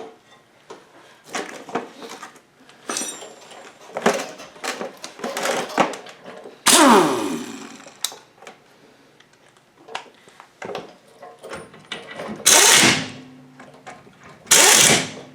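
Workshop work on a VW buggy front end: scattered metal clinks and knocks of parts and hand tools. About seven seconds in comes a loud sound that falls steadily in pitch, and near the end three short, loud bursts of noise with a low hum under them.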